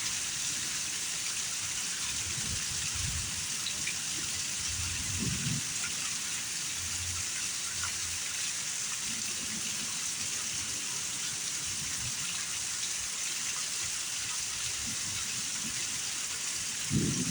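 Heavy rain pouring steadily, a dense even hiss, with a couple of brief low thumps about five seconds in and near the end.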